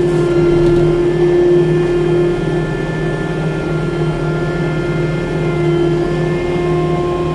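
Diesel engine of a 6-ton tracked skid steer loader running steadily, a constant hum with no change in speed.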